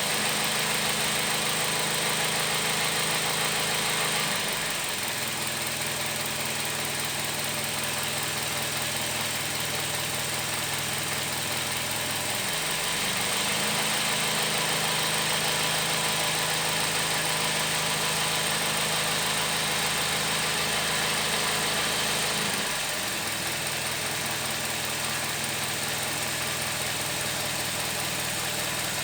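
Toyota Vitz engine idling steadily with the automatic gearbox in Drive. Its note shifts slightly about four seconds in, again around thirteen seconds, and again around twenty-three seconds, running a little louder in between.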